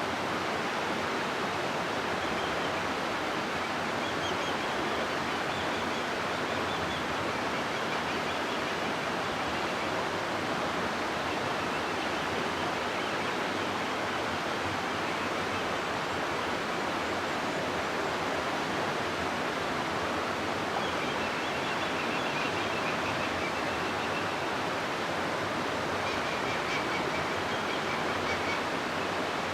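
River water rushing steadily through a rocky gorge, an even, unbroken roar of flowing water.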